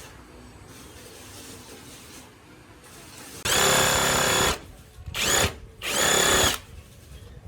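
Small electric motor whirring in three bursts: the first lasts about a second, then two shorter runs follow. Each run holds a steady whine.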